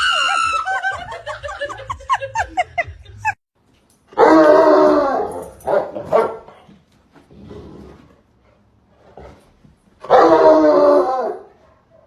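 Dog giving loud, drawn-out howling barks, each about a second and a half, about four seconds in and again near ten seconds, with a shorter one just after six seconds. Before them comes a quick run of short, high, wavering calls over a low beat.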